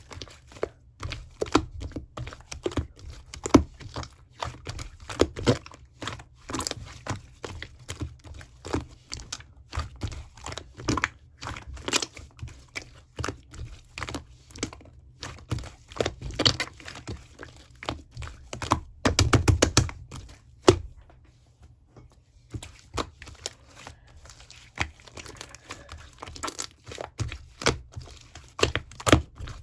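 Cloud slime being squeezed and pulled apart by hand, making irregular crackling and tearing sounds, with a denser run of crackles about two-thirds of the way through.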